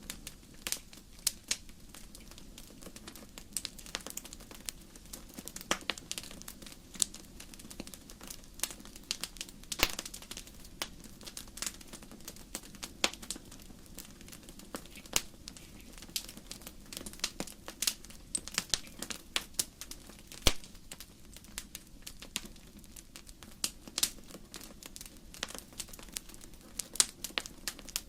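Logs burning in a fireplace and crackling: irregular sharp pops and snaps, some loud, over a low steady rushing noise.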